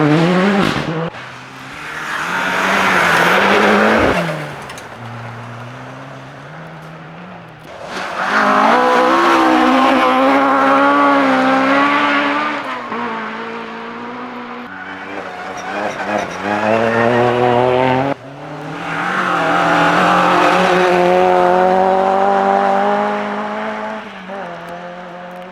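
Rally cars at speed on a gravel forest stage, each engine revving hard with its pitch climbing and dropping through gear changes. There are three loud passes, with quieter engine noise between them.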